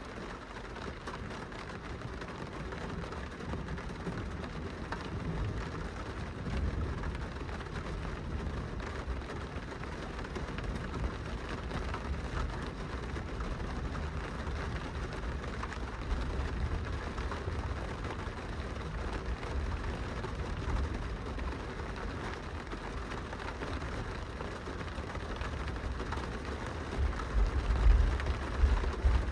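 Steady rain pattering on a glass window. A low rumble swells near the end.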